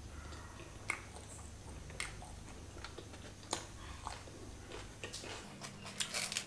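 A person chewing food close to the microphone: faint mouth clicks and smacks, a few at first and coming faster near the end.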